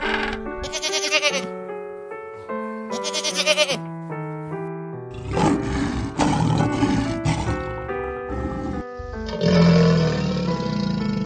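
Background music with animal calls laid over it: two high whistling calls of an emperor penguin chick in the first four seconds, then a lion roaring for about two seconds from about five seconds in. Near the end comes a crocodile's growl, the loudest moment.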